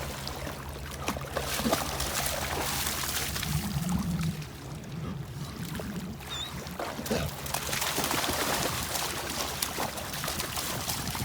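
Water trickling and splashing around a kayak.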